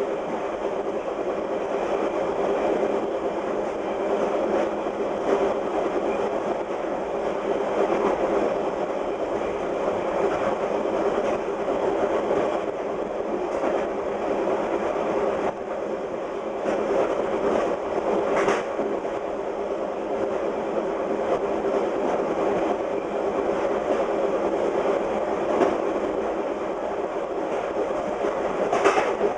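Fast VIA Rail passenger train running on jointed rail: a steady rumble of wheels on track with frequent clicks from the rail joints, and a sharper clack about two-thirds of the way through and again near the end.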